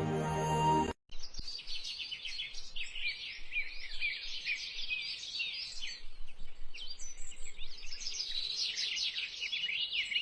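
Music for about the first second, cut off suddenly. Then a dense chorus of many small birds, continuous rapid overlapping chirps and twitters.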